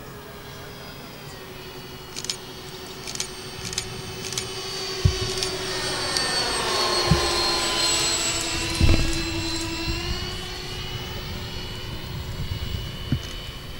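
Twin 70 mm 12-blade electric ducted fans of a radio-controlled Boeing 737 model jet whining as it flies by. The sound grows louder toward the middle, then eases off, with the pitch shifting as it passes. A few low thumps of wind on the microphone come through.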